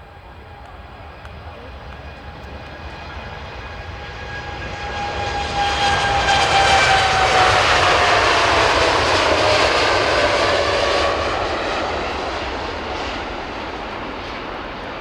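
Airliner's engines passing by close to the runway. The engine noise swells, is loudest about six to eleven seconds in, then fades. Over it, a whine drops in pitch as the plane goes past.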